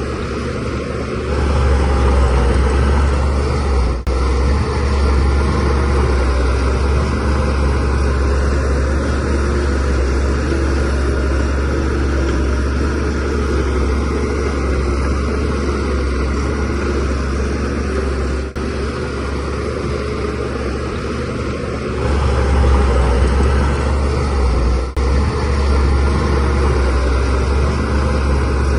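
Diesel engine of a Shantui DH17C3 bulldozer running steadily under work, getting louder about a second in and again around 22 seconds as it takes more load.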